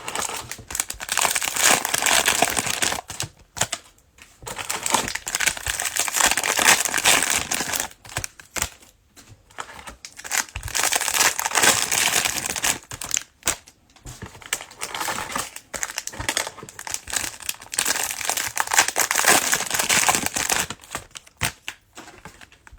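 Cellophane wrappers of trading-card cello packs crinkling as the packs are opened and handled, in several bouts a few seconds long with short pauses between.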